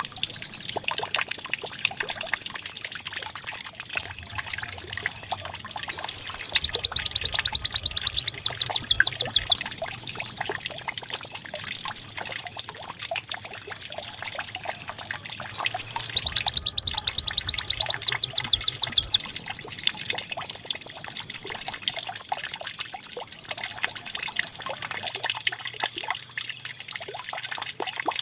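Lure recording of a white-eye (pleci) singing canary-like song: fast, high rolling trills and warbles. The same phrase repeats about every nine to ten seconds. About three-quarters of the way through the song stops, leaving a faint trickling background.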